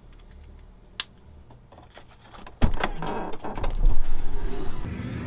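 A sharp click about a second in, then a louder run of jingling and clattering metal from about two and a half seconds in.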